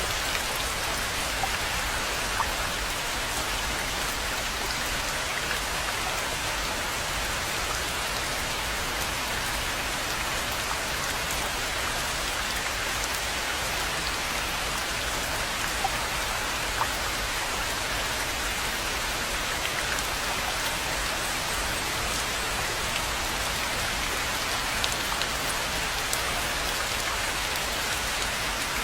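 Steady rain falling on a pond: an even hiss with a few distinct louder drops now and then.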